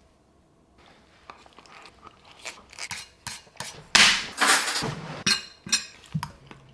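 A person chewing and eating stir-fried mee goreng noodles close to the microphone, with short clicks of chopsticks and a fork against the plate. The loudest stretch of eating comes about four seconds in.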